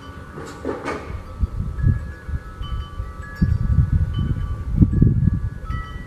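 Wind chimes ringing, several metal tones sounding at different moments and overlapping as they die away, over irregular low rumbles.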